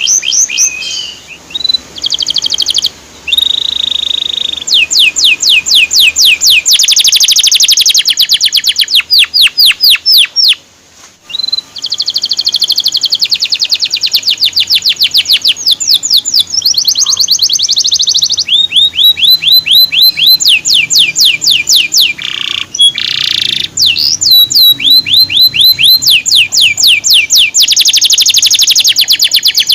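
Male canary singing loudly: fast trills and rapid runs of repeated sweeping notes, with a short pause about ten seconds in.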